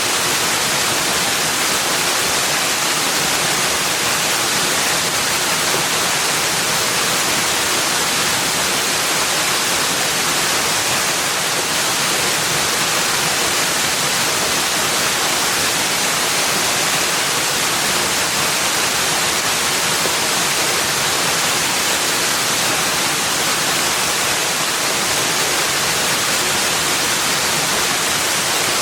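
Steady, unbroken rush of flowing water, an even hiss with no changes or separate sounds.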